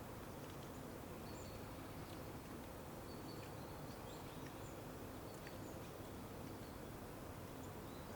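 Outdoor nature ambience: a steady low background hiss, with faint, scattered short high chirps from distant birds throughout.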